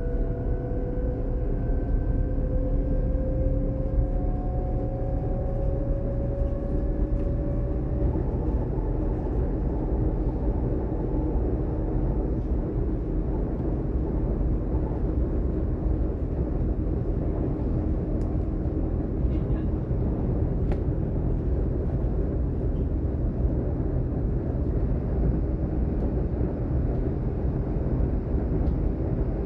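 A DB class 422 electric multiple unit (Alstom/Bombardier) running, with a steady rumble of wheels and running gear. Over the first several seconds, a traction motor and converter whine rises slowly in pitch as the train gathers speed, then fades into the even rolling noise.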